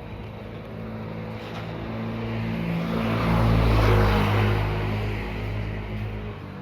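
Engine of a motor vehicle passing close by. It grows louder to a peak about four seconds in, then fades away.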